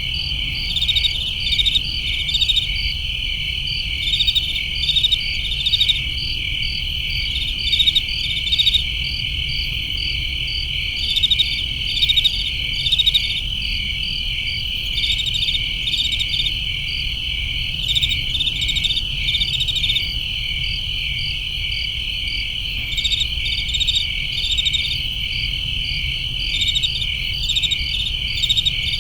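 A chorus of crickets and other night insects: a steady high trill, with rapid pulsed chirps repeating over it in clusters. A steady low rumble runs underneath.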